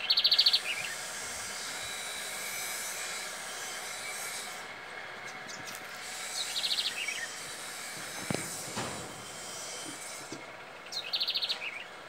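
A small bird calling three times, about five seconds apart: each call a quick rattling run of high notes followed by a short lower twitter. A steady hiss runs underneath, with a brief low knock a little past the middle.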